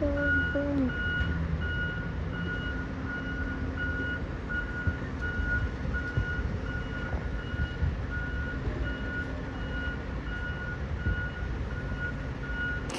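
Garbage truck's reversing alarm beeping in an even, repeating rhythm over the low running of the truck's engine. The beeps stop just before the end.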